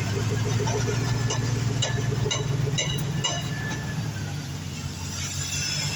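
2000 Chevrolet Silverado engine running steadily at idle, with a series of sharp clicks about half a second apart partway through.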